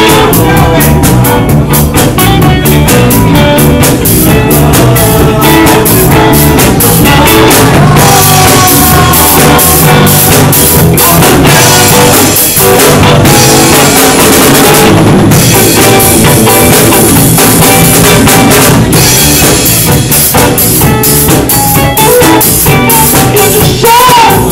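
A live band playing rock-style music with drum kit and electric guitar, loud and steady throughout.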